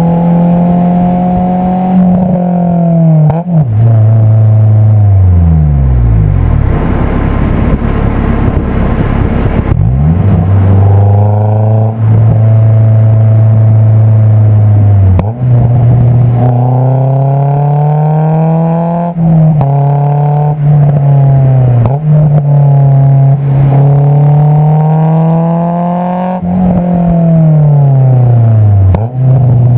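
Honda S2000's 2.2-litre inline-four heard at the tailpipe through an Invidia Q300 exhaust while driving, the note climbing and dropping through several gear changes. About a third of the way in the revs fall away off throttle under a rush of wind noise, before the pulls resume.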